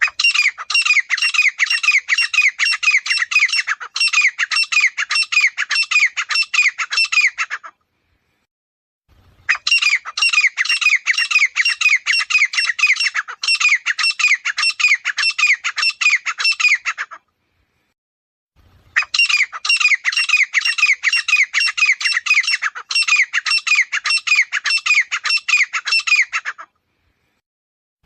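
Grey francolin calling: three long bouts of rapid repeated notes, each lasting about seven to eight seconds, separated by short silent gaps. A fourth bout starts at the very end.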